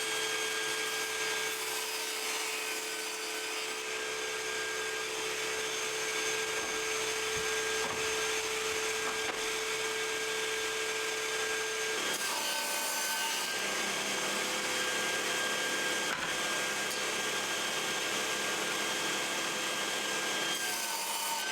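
A power saw running and cutting MDF strips to length, a steady whining noise throughout, its tone shifting about halfway through.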